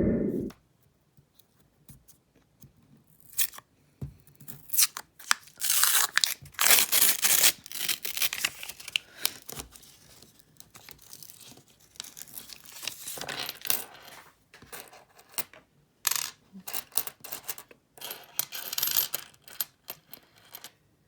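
Paper penny-roll wrapper being torn open in a series of irregular rips and crinkles, with scattered sharp clicks.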